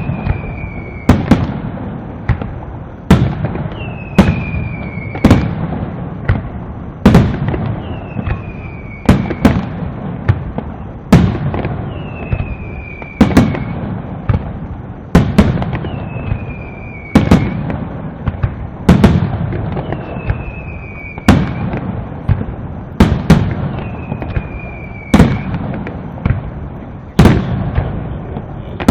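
Aerial fireworks shells bursting in a steady run of loud bangs, about one every second or two, with a short falling whistle about every four seconds.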